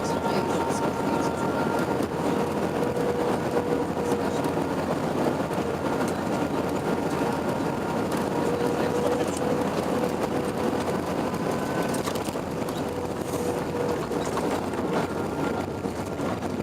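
Steady cabin noise inside an Airbus A321-100 during the landing: a loud, even rush of engine and airflow noise with a few steady humming tones, easing slightly near the end.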